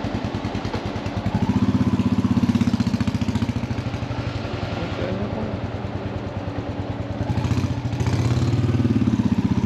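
Royal Enfield motorcycle engine running under way, its exhaust pulsing evenly; it pulls harder and louder twice, once about a second and a half in and again near the end.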